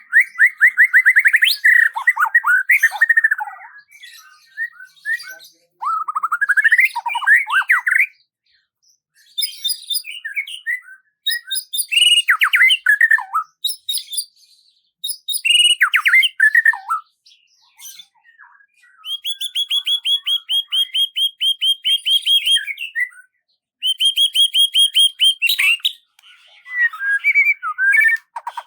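A songbird singing in varied phrases of chirps, sweeping slurs and rapid trills, with short pauses between phrases. Two long, fast, even trills come in the second half.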